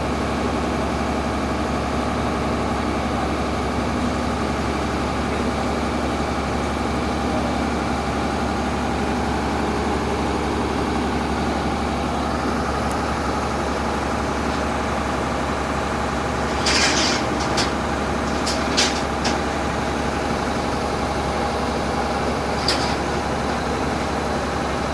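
Heavy vehicle engine idling steadily, with a few short hisses about two-thirds of the way through.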